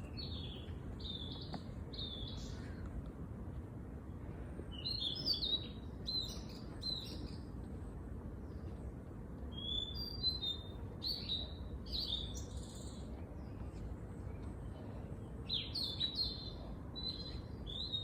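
Small songbirds chirping outdoors in short bursts of quick notes, four bouts a few seconds apart, over a steady low rumble of background noise.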